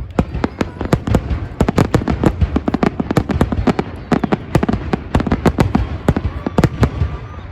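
Fireworks display: a rapid, dense barrage of bangs and crackling reports, several a second, thinning out near the end.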